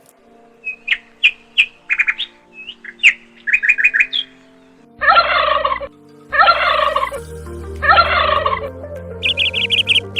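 Birds calling: a series of short chirps and whistles, then three loud harsh calls of about a second each, then a fast run of repeated chirps near the end.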